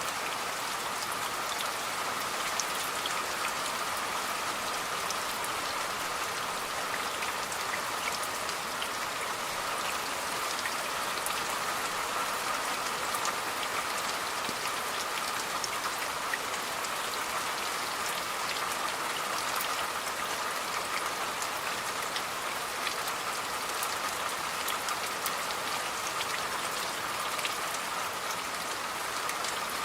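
Steady rainfall, an even hiss of rain with many small drop ticks throughout.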